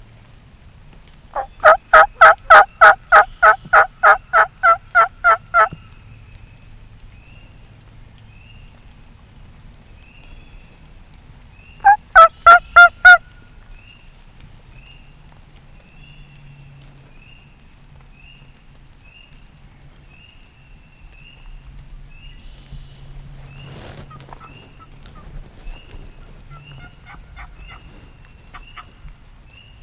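Turkey yelping: a long run of loud, evenly spaced yelps, about three a second for four seconds, then a shorter run of five yelps about ten seconds later.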